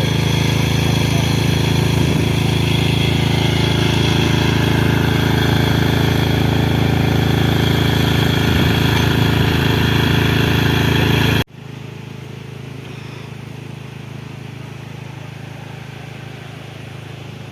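An engine running steadily and loudly. About eleven and a half seconds in it cuts off abruptly, and a quieter, steady engine sound follows.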